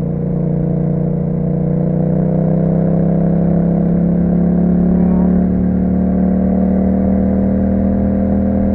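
Yamaha MT-07's parallel-twin engine running through an Akrapovic exhaust, pulling steadily in one gear. Its pitch rises gently a couple of seconds in, then holds steady.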